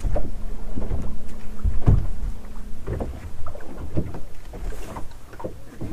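Wind-driven waves slapping against the hull of a bass boat: a run of irregular knocks and splashes over a low rumble, with a steady low hum during the first two seconds.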